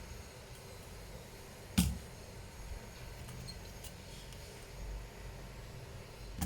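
One sharp click or knock about two seconds in, with a few faint ticks, over a low steady hum: small hard parts being handled while a laptop's fan and heatsink are taken apart.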